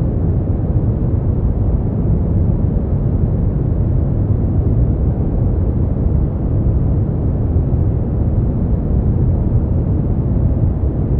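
Continuous steady noise from a sleep-aid white-noise track, deep and rumbling with little high hiss, unchanging throughout.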